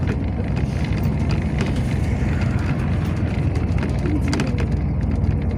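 Steady low rumble inside the passenger cabin of a Yutong ZK6118HGA city bus, with a couple of brief light rattles.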